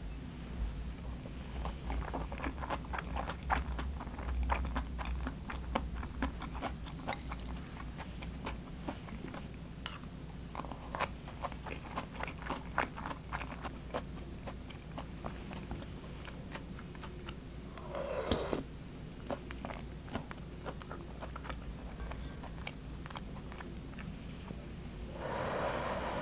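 Close-up eating sounds: chewing a mouthful of bibimbap with crisp crunching from the julienned radish salad and wet clicks of the mouth. Two brief louder noises come later, one about two-thirds in and one near the end, over a low steady hum.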